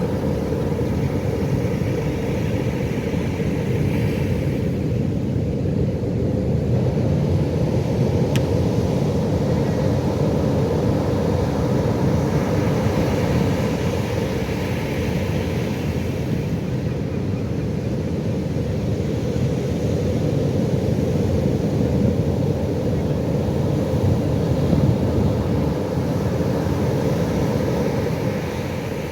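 Ocean surf breaking, heard as a steady low rumble, with wind noise on the microphone.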